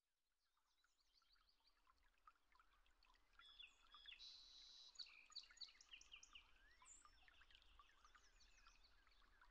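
Faint chorus of birdsong, many short chirps, trills and whistled glides from several birds, fading in from silence.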